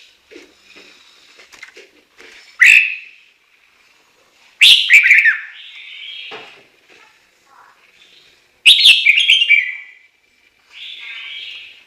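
Chinese hwamei (ガビチョウ) singing: three loud whistled phrases with falling notes, with quieter notes between them.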